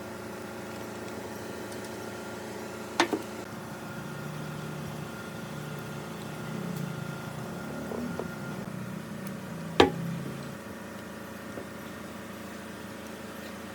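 A machine hum running steadily, broken by two sharp knocks about seven seconds apart, the second one louder.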